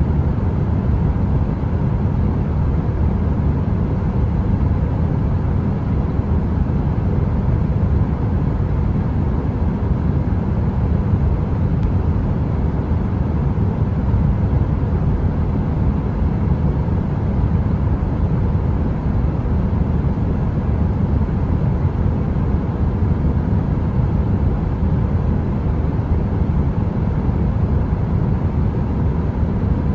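Steady heater noise: an even, unbroken low rumble, heaviest in the bass and thin in the treble, like brown noise, with no crackling.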